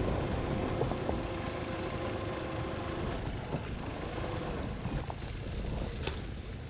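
Dirt bike engine running steadily at low revs, slowly getting quieter.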